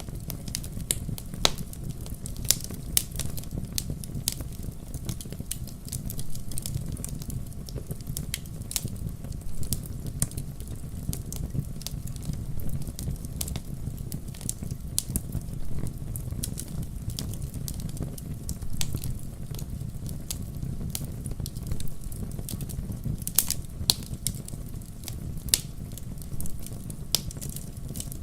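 Wood fire burning in a fireplace: a steady low rumble of flames with frequent irregular sharp crackles and pops, a few louder ones standing out.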